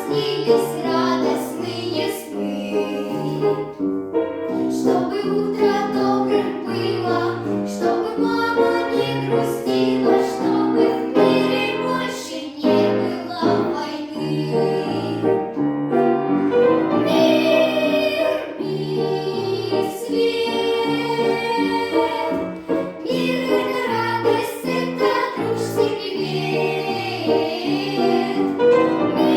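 A children's song: young voices singing over an instrumental backing track with a stepping bass line.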